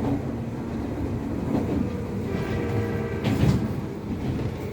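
Train running on rails: steady wheel rumble with knocks and clacks over rail joints, and a brief rising motor whine in the middle.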